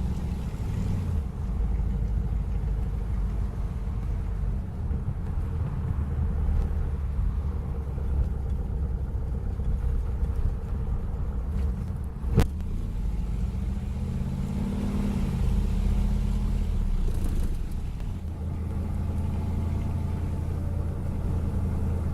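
Car engine running steadily, its pitch rising and then falling about fourteen seconds in, with one sharp click about twelve seconds in.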